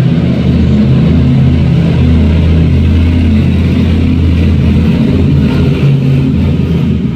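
Monster truck engine running loud, its pitch rising and falling a little as it revs.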